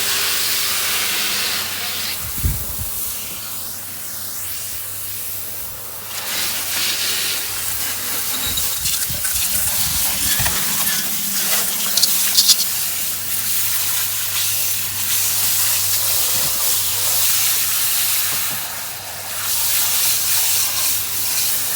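Hose spray hissing and spattering onto a car's engine bay as it is rinsed down. The hiss rises and falls as the spray moves, over a steady low hum, with a few brief low thumps.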